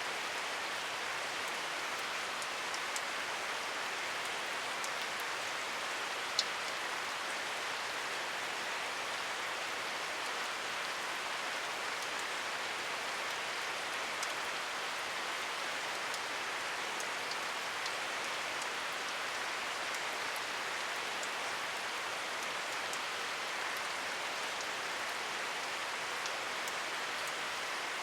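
Steady rainfall, an even hiss of rain with scattered individual drops ticking on a surface, one sharper drop about six seconds in.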